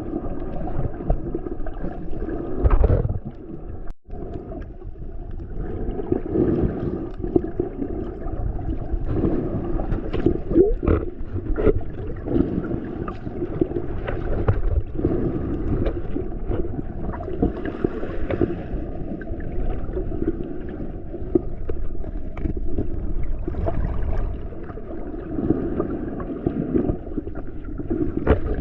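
Sea water churning and gurgling around the microphone of a camera carried while swimming. The sound is muffled, with scattered small knocks and a brief break about four seconds in.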